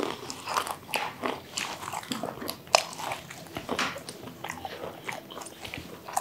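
Close-miked eating: chewing and biting of food, a run of irregular sharp mouth clicks and smacks, with one louder click about three seconds in.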